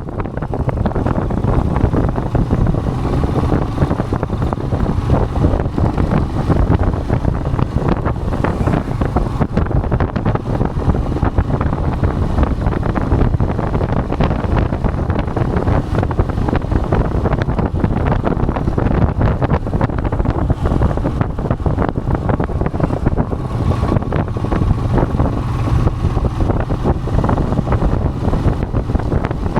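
Steady wind rush on the microphone of a moving Royal Enfield Himalayan motorcycle, with the single-cylinder engine running underneath.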